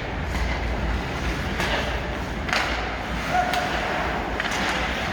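Ice hockey game in a rink: several sharp knocks and thuds from play on the ice, over a steady low rumble.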